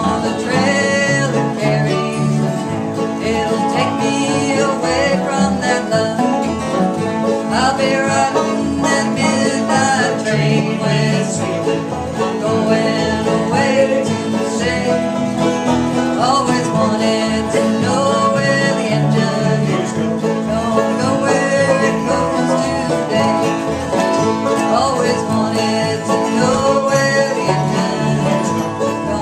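Bluegrass music with banjo and guitar playing an instrumental passage, without singing.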